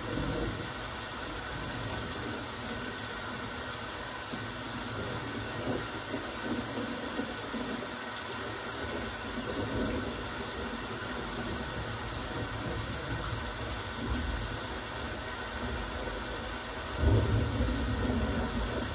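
Steady rain falling, an even hiss, with low rumbling swells that come and go and a louder low rumble near the end.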